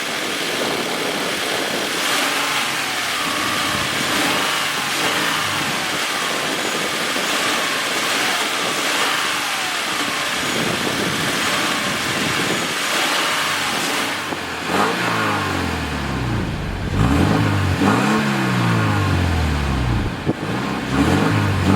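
2013 Scion FR-S's 2.0-litre flat-four boxer engine running steadily at idle, then revved several times over the last seven seconds or so, its pitch climbing and falling with each blip of the throttle.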